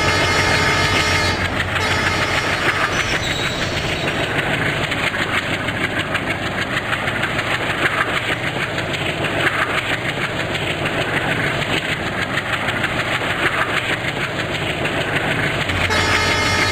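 A train passing at speed, its wheels clattering over the rail joints in a dense steady rattle, starting about a second in and ending near the end. A steady engine hum is heard at the start and again after the train has gone.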